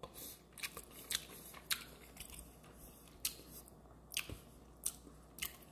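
Faint chewing of a mouthful of salmon and couscous, with soft mouth clicks and smacks coming irregularly about every half second. A slightly stronger knock comes about four seconds in.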